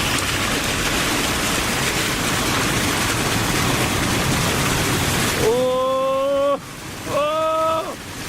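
Steady rushing hiss of rain and wet-road tyre noise heard from inside a moving car. It cuts off about five and a half seconds in. Two short held tones follow, each sliding up at its start.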